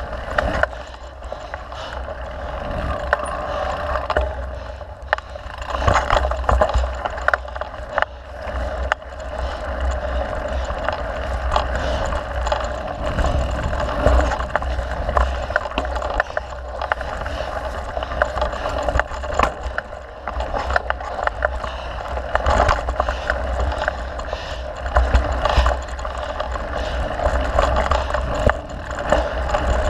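Mountain bike being ridden on a dirt trail: a steady rumble and rush of wind against the camera microphone, with frequent rattles and clicks from the bike over bumps.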